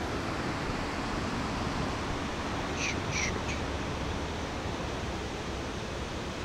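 Steady outdoor background hiss, with a bird giving three short calls in quick succession about three seconds in.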